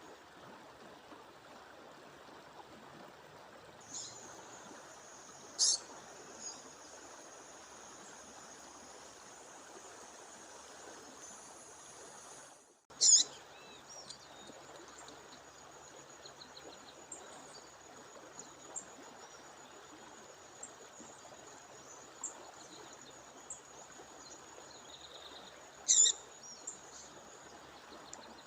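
Waterfall rushing steadily, with a female bird calling: three loud, short, sharp calls, about 6 s, 13 s and 26 s in, and a few fainter chirps between them.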